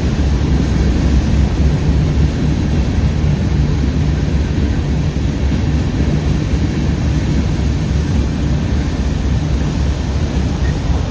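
CSX freight train rolling past with a steady, low rumble.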